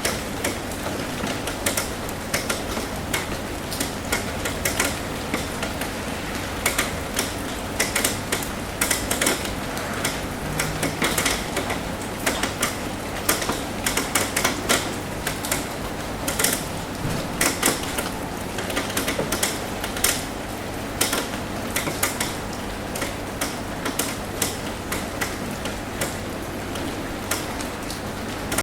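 Rain on a roof: a steady hiss of rainfall with many irregular, sharp taps of drops striking the roof.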